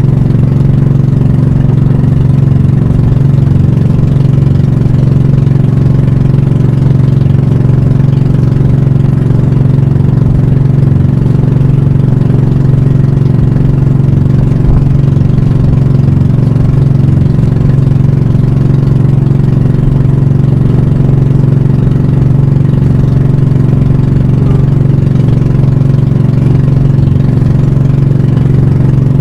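Pump boat (banka) engine running steadily at a constant speed: a loud, even drone that holds one pitch throughout.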